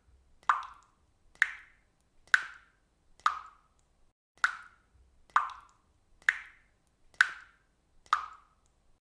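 Faucet dripping water steadily, one drop a little under every second, about ten drops in all, each a sharp plop that dies away quickly.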